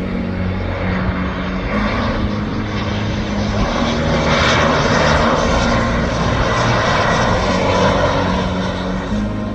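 Jet airliner engines on a landing approach passing close by: a loud, even rush that swells to a peak about halfway through and then eases off.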